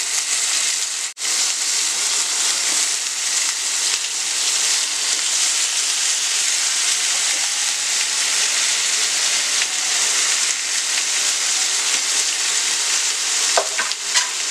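Raw chicken pieces sizzling in hot oil with fried onions and spices in a non-stick wok: a steady frying hiss, broken by a brief dropout about a second in, with a few light clicks near the end.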